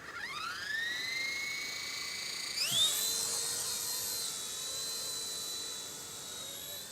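Small electric RC Era C138 Bell 206 scale RC helicopter spooling up for takeoff: a high motor-and-rotor whine that rises in pitch and levels off, then rises again about two and a half seconds in to a higher, steady whine.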